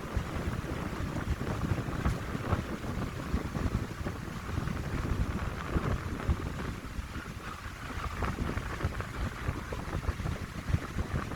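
Wind blowing through a pine grove, a steady rushing hiss, with gusts buffeting the microphone in an irregular low rumble.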